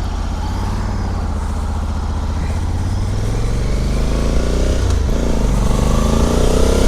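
Honda Africa Twin CRF1100L's parallel-twin engine pulling under acceleration, its pitch rising, dipping briefly about five seconds in as it shifts up, then rising again, over steady wind rush.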